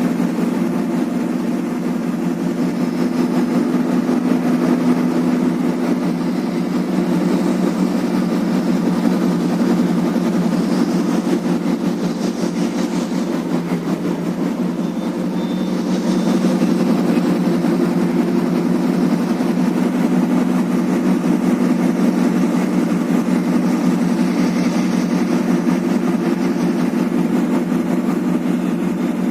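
Tugboat engine running steadily at an even pace, a continuous low drone.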